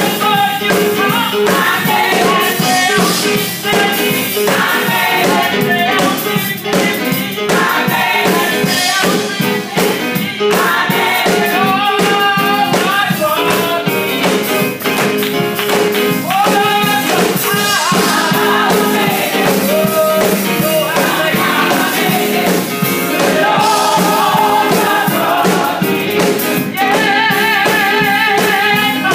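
Gospel music: voices singing over band accompaniment with percussion.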